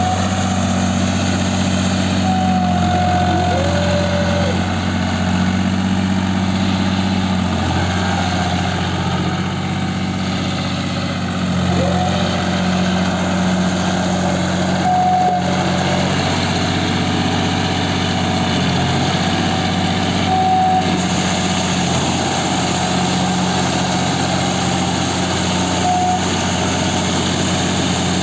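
John Deere 5050D tractor's diesel engine running at a steady speed, an even drone with no revving.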